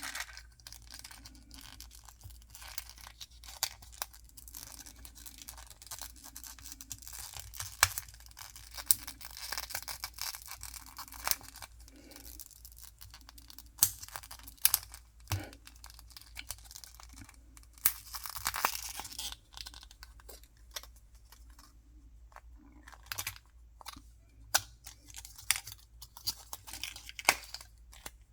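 Packaging being opened by hand: tearing and crinkling of paper or plastic wrapping, with many sharp clicks and taps. There is a longer stretch of tearing about two-thirds of the way through.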